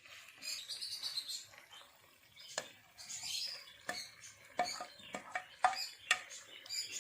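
Kitchen clatter: a series of sharp metal clinks and taps, several with a brief ring, as a utensil knocks against cookware. Between them are scattered high chirp-like crackles.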